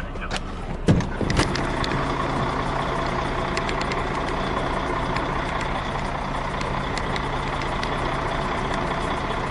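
Semi-truck's diesel engine running steadily, with two sharp knocks about a second in.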